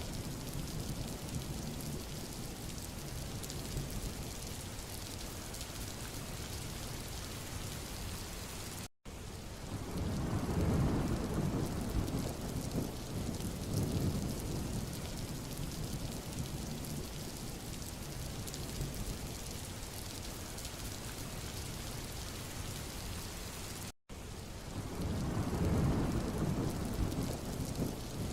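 Steady rain on a road, a constant hiss, with low rumbling swells that build up twice, about a third of the way in and again near the end. Just before each swell the sound cuts out for an instant.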